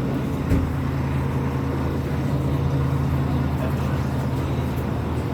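Road vehicle running with a steady low drone, and a single knock about half a second in.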